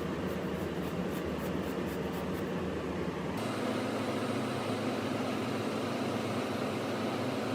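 Steady machine noise running throughout, its tone shifting lower about three and a half seconds in.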